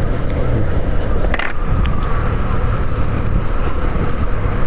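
Motorcycle running steadily along the road, with a steady low rumble; a short sharp click about a second and a half in.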